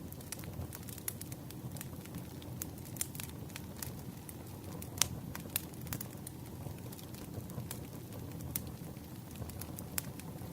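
Wood campfire crackling: a steady low rumble of burning logs with irregular sharp pops and snaps, the loudest about five seconds in.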